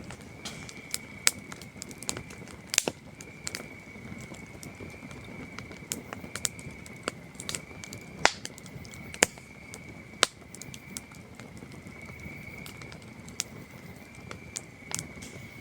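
Wood campfire crackling, with sharp irregular pops and a few louder snaps in the middle, over a steady high trill of crickets.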